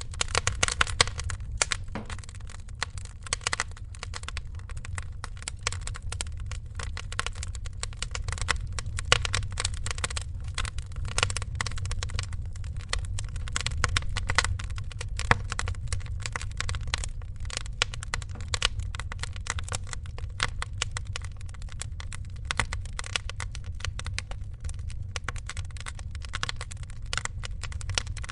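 Wood fire crackling: many quick pops and snaps over a steady low rumble, with a few louder pops.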